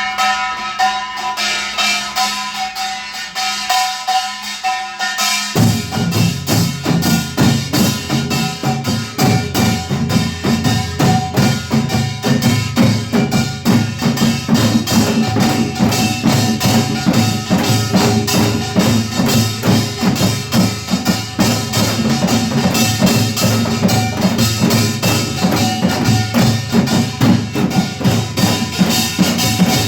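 Samulnori percussion ensemble playing: fast, dense strokes of Korean percussion. About five and a half seconds in, deep drum strokes come in and the playing fills out.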